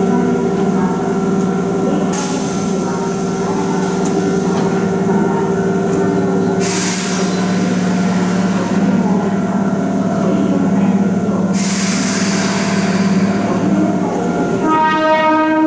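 Keihan electric commuter train standing at the platform with a steady electric hum, broken by three bursts of air hiss. Near the end the train's horn sounds.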